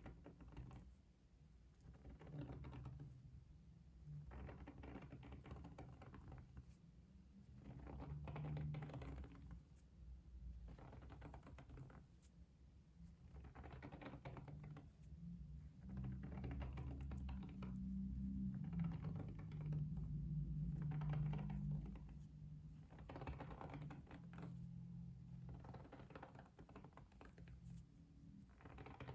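Bursts of soft, rapid clicking and tapping, each about a second long, repeating every two to three seconds over a low rumble.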